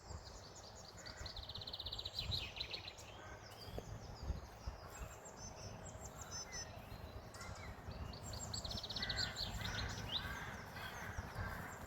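Small songbirds singing: two fast trills of rapidly repeated high notes, the second near the end, with scattered short chirps between, over a low steady background rumble.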